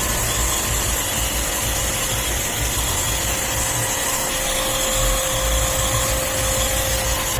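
Pressure-washer jet pump running, its water jet spraying an air-conditioner filter from the back side to blast the dust out: a steady hiss of spray over the pump motor's hum and a steady whine.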